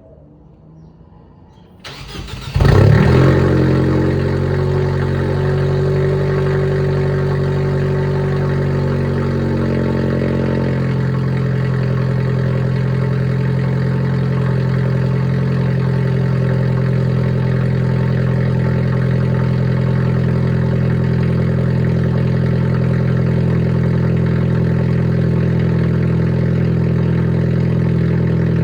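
2017 Nissan Sentra Nismo's turbocharged 1.6-litre four-cylinder, running through an exhaust with the muffler deleted, cold-starting: a brief crank about two seconds in, a loud flare as it catches, then a steady high cold idle that drops a step about ten seconds in and settles.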